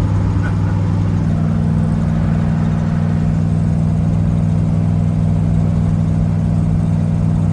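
Twin-turbo racecar engine heard from inside the stripped, caged cabin, holding a steady cruise at about 2,400 rpm with an even low drone.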